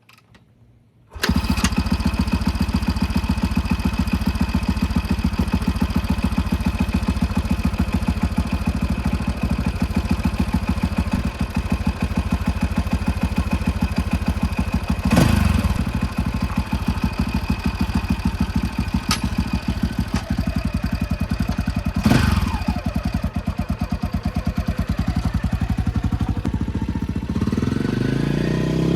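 A Husaberg FE 350 dirt bike's engine fires up about a second in and then idles steadily. It is blipped twice in the middle, and the revs rise near the end.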